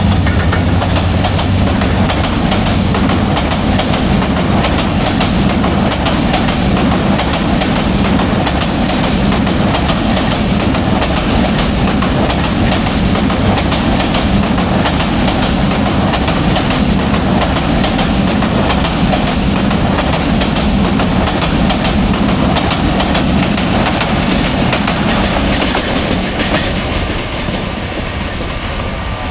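Intercity express train rolling past at speed: a steady rush of wheels on rail with rapid clickety-clack over the rail joints, fading away over the last few seconds.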